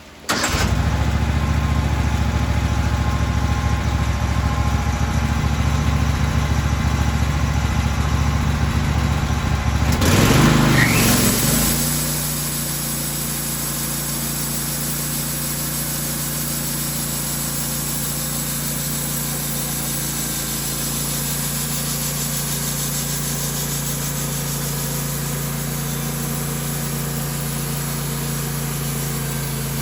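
An engine starts up loud and runs steadily at a low speed, then about ten seconds in is throttled up with a rising pitch and settles into a steady, higher-speed run.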